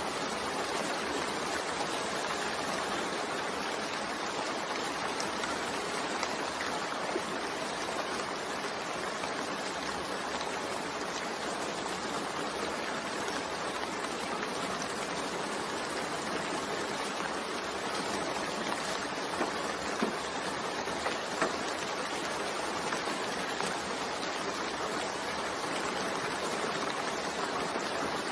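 Steady rain: a dense, even hiss of falling water with faint scattered drop ticks, and a few slightly louder drops about two-thirds of the way through.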